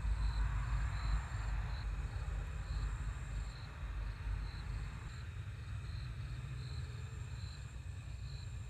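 Crickets chirping, a high chirp repeating regularly a little more than once a second, over a steady low rumble.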